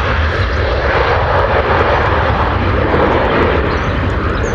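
Jet airliner's engines running at high power, a loud, steady roar with a deep rumble underneath.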